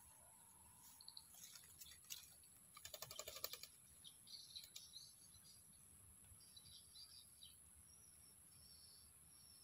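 Faint chirping of small birds, short high notes repeated through the second half, with a quick run of light clicks about three seconds in.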